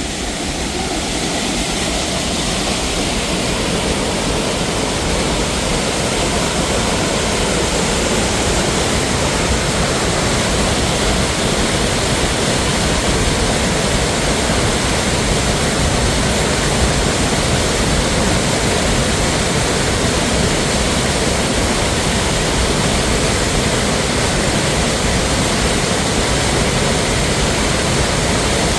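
Waterfall's rushing water: a loud, steady, even rush that grows a little louder over the first couple of seconds, then holds.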